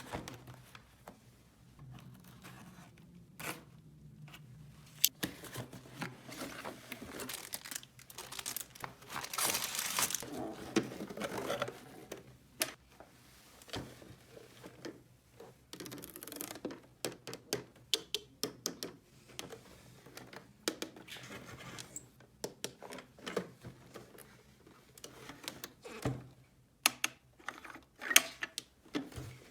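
Hands handling small plastic toy pieces and their packaging: irregular clicks and taps, with crinkling and tearing rustles. There is a longer, louder rustle about ten seconds in.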